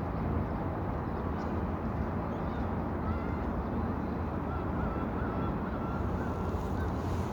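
Steady low rushing wash of water and wind as a passing ship's wake rolls in, with a faint wavering high call from about three to six seconds in.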